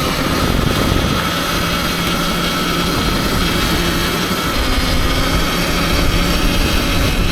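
Surron Ultra Bee electric dirt bike being ridden: a steady, loud rush of wind and road noise with a steady whine over it.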